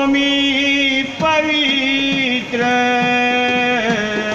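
A man singing a Marathi devotional bhajan, holding long drawn-out notes with wavering ornamented turns between them.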